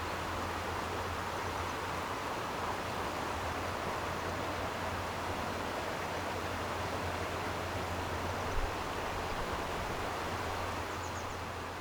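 Steady rushing of flowing stream water. There is a single soft low bump about two-thirds of the way through and a faint, brief high chirp near the end.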